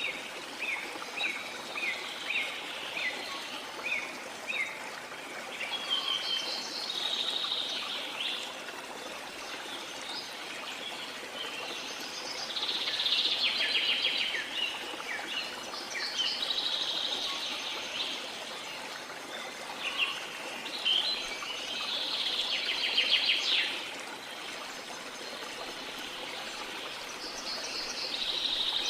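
Birds singing over the steady rush of flowing water. A run of short, evenly spaced chirps in the first few seconds gives way to longer trilled phrases that come and go.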